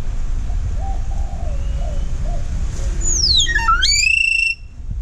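Talking bird whistling in mimicry: after some faint low mumbling, a loud whistle about three seconds in slides steeply down, swoops back up to a held note and cuts off suddenly.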